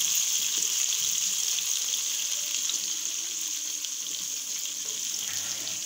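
Sliced onions, green chillies and whole cumin frying in hot oil in an aluminium karahi, a steady sizzle as the mix is stirred with a wooden spoon.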